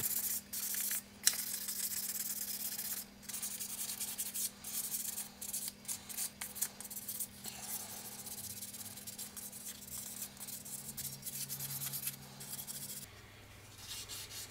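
1500-grit sandpaper rubbed by hand over the paint-stripped side plate and frame of a multiplier fishing reel, in irregular scratchy strokes with short pauses. The sanding roughens the surfaces and takes off leftover paint before priming.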